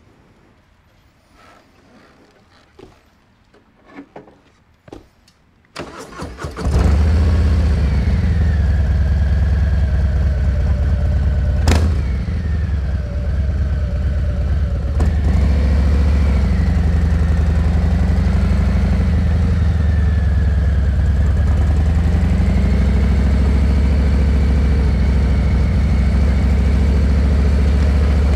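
A few faint clicks, then the starter cranks briefly about six seconds in and the 2023 Harley-Davidson Heritage Classic 114's V-twin engine fires and settles into a loud, steady idle. A sharp click comes about twelve seconds in.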